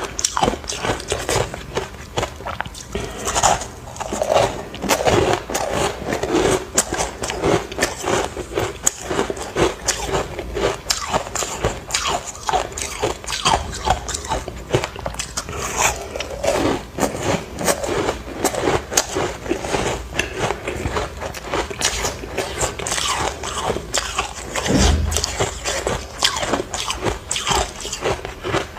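Close-up biting and crunching of ice chunks dusted with matcha powder: a dense, irregular run of sharp cracks and crackles as the ice breaks between the teeth, with a dull low thump near the end.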